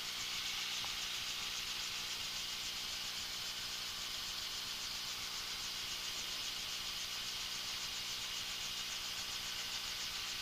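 Helicopter engine and rotor running steadily at idle during the cool-down before shutdown, heard from inside the cabin as a steady hiss with a fine regular flutter.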